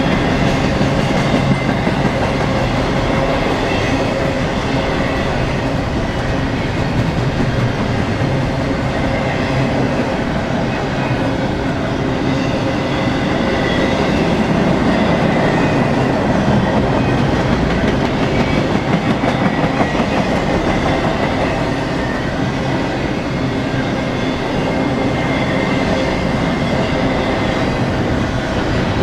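Freight train rolling past: a steady loud rumble of steel wheels on the rails, with faint high ringing tones above it.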